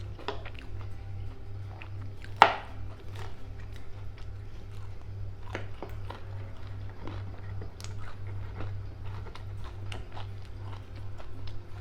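Close-up eating sounds: chewing and biting with wet mouth smacks and scattered crunches, and one sharp loud click about two and a half seconds in. A low steady hum runs underneath.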